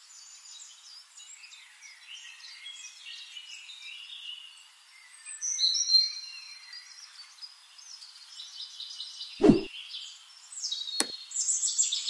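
Birds chirping and calling, many short high notes and glides overlapping. A dull thump about three quarters of the way in, then a sharp click a second and a half later.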